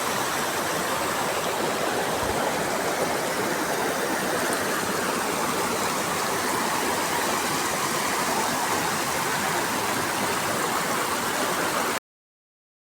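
Multnomah Falls, the waterfall's falling water rushing as a steady, even noise that cuts off suddenly near the end.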